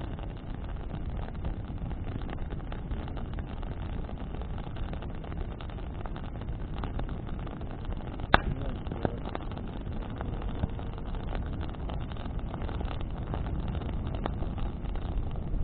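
Wood bonfire burning in the wind: a steady low rumble of wind and flame with scattered crackles, and one sharp loud pop a little over eight seconds in.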